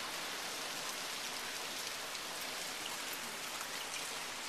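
Heavy rain hammering down steadily, with many close drops ticking.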